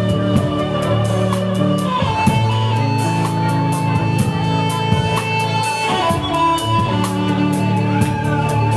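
Live rock band playing an instrumental passage: sustained electric guitar or violin notes and bass over a steady drum beat with regular cymbal hits.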